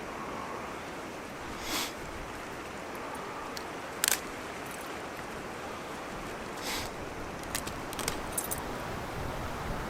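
Steady rushing noise with scattered light clicks and rustles of handling; a sharp click about four seconds in is the loudest sound.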